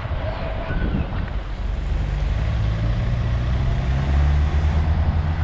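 Citroën C4 Picasso car engine running just ahead of the bike, a steady low hum that comes in about two seconds in and grows louder, over the rumble of air and the road past the moving bicycle.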